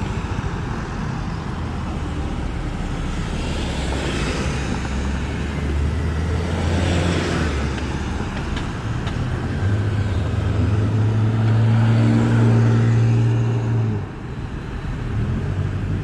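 Car engine and road noise while driving. The engine note rises and grows louder from about ten seconds in, then drops suddenly near fourteen seconds.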